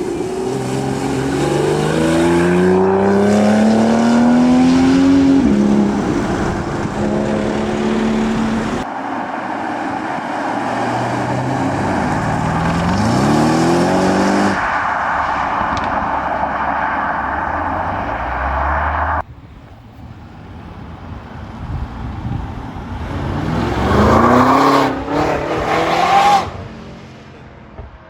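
Modified cars accelerating hard away, their engines revving up in a rising pitch through the gears several times over. The sound changes abruptly twice, at about a third and two thirds of the way through, as one car gives way to the next.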